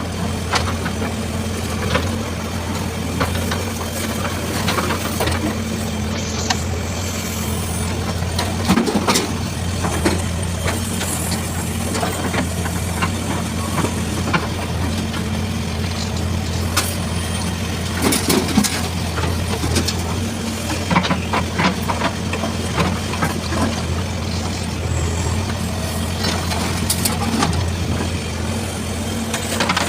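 Heavy diesel engine running steadily at a constant low pitch, with scattered short knocks and clanks of loading work on top.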